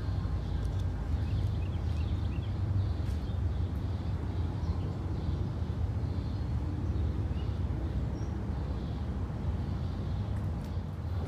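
Steady low rumble of a train approaching slowly from a distance, not yet close, with a few faint bird chirps above it.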